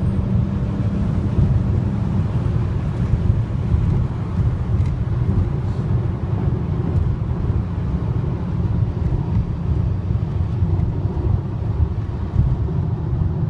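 Car driving at highway speed, heard from inside the cabin: a steady low rumble of engine, tyres and road noise.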